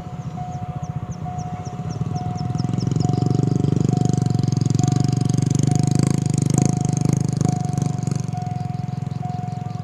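Level-crossing warning alarm sounding a steady repeating beep, a little faster than once a second, as a QSY-class diesel-electric locomotive hauling a container freight train comes up and passes. The engine's rumble grows from about three seconds in and peaks midway, with a few sharp clacks of wheels over the crossing.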